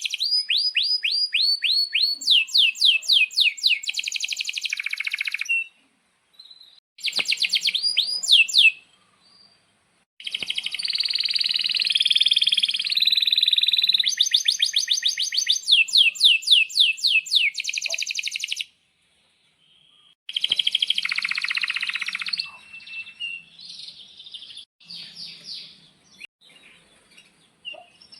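Male domestic canary singing in long phrases: runs of rapid, high falling whistled notes, several a second, and a dense buzzing roll in the middle, separated by short pauses. The song thins to scattered softer notes near the end.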